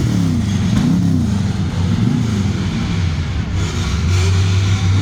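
Several car engines revving, their pitch rising and falling repeatedly and overlapping, then settling into a steadier low drone near the end.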